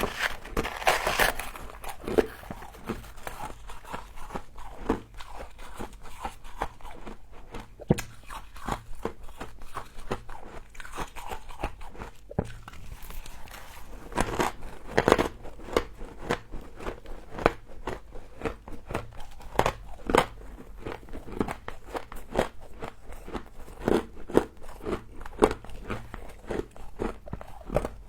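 A person biting and chewing frost, a continuous run of irregular crisp crunches.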